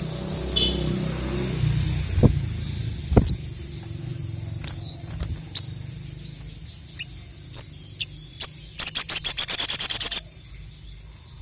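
A sogon (sogok ontong sunbird) singing: sharp, high single chirps spaced out, then a fast, loud run of about a dozen notes starting about nine seconds in. Two dull knocks sound in the first few seconds.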